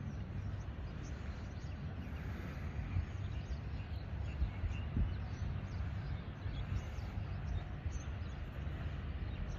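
Outdoor ambience: a steady rushing noise, heaviest in the low end, from wind and sea, with faint bird chirps scattered through it.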